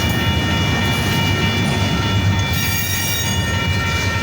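Double-stack intermodal freight train rolling slowly past as it slows, with a steady low rumble of wheels on the rails and several steady high squealing tones above it.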